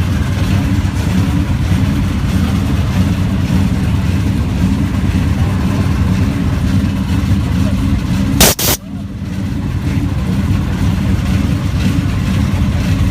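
Car engine running with a deep, steady rumble. A single loud sharp crack comes about eight and a half seconds in.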